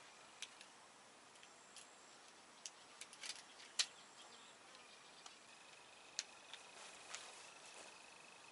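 Scattered sharp clicks and taps, about a dozen, the loudest nearly 4 seconds in, over a faint steady high thin tone.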